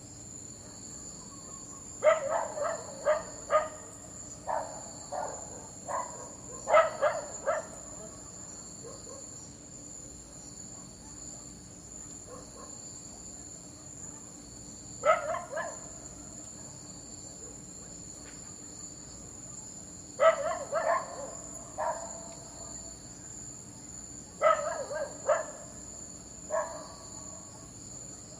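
A dog barking in irregular volleys of several quick, sharp barks with pauses of a few seconds between them, over a steady high chirring of crickets.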